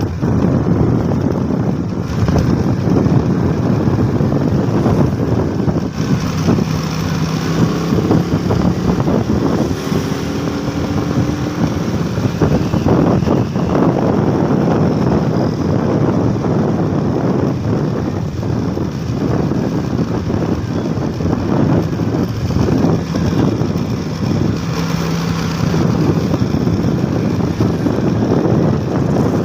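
Steady road-traffic noise with wind rumbling on the microphone, and a vehicle's engine hum rising over it twice, from about seven to twelve seconds in and again in the second half.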